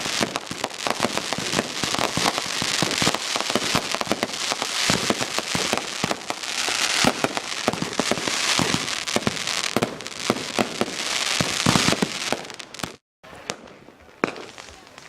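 A dense fireworks barrage: rapid overlapping bangs and crackling, many shots a second. About 13 seconds in it cuts off suddenly, leaving only a few scattered, fainter pops.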